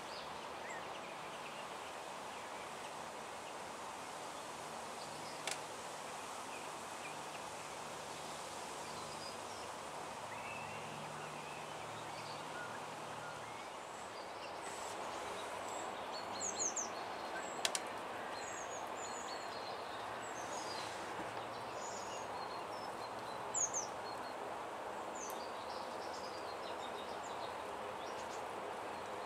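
Steady outdoor background hiss with scattered high bird chirps and calls, more of them in the second half, and a few brief clicks.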